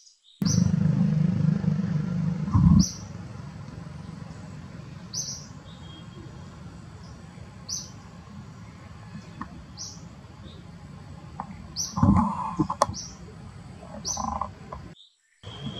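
A bird repeating a short high chirp every second or two over a steady background hiss. A low rumble fills the first couple of seconds, and a brief louder noise comes about three-quarters of the way in.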